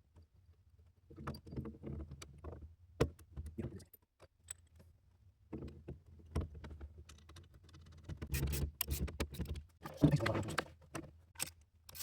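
Irregular clicks, clanks and rustling of metal parts and tools being handled, in scattered bursts with a sharp knock about ten seconds in.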